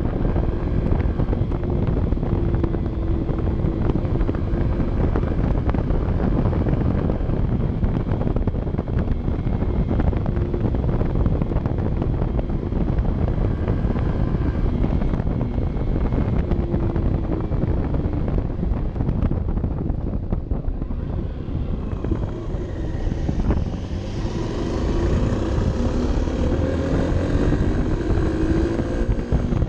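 Honda CB 125 F's single-cylinder four-stroke engine running under way, heard onboard with heavy wind noise on the microphone. About twenty seconds in it eases off briefly, then the engine note rises as the bike accelerates.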